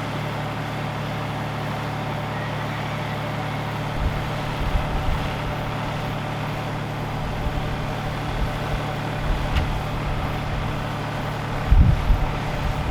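Tractor engine running at a steady pitch, with irregular low rumbles and knocks from about four seconds in and a louder burst near the end.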